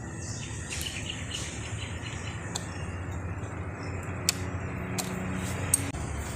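A few sharp, light clicks of metal parts being handled during motorcycle engine reassembly, over a steady low background hum with faint chirping.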